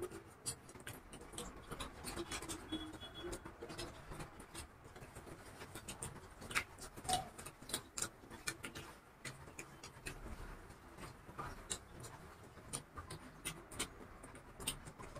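Close-up eating sounds: soft chewing, small mouth clicks and lip smacks as two people bite into and chew vada pav, with scattered ticks as the soft buns are torn and handled.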